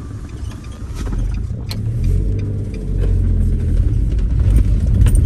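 Datsun hatchback's engine heard from inside the cabin, pulling away and accelerating; its low rumble grows louder over the first few seconds and then holds steady.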